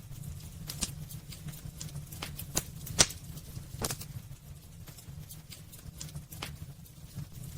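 Wood fire burning in a fireplace: irregular sharp crackles and pops over a low steady rumble, the loudest pop about three seconds in, with the crackles thinning out in the second half.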